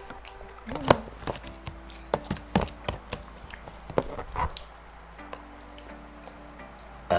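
Close-up eating sounds: irregular sharp clicks and smacks of cutlery and chewing, most of them in the first four and a half seconds.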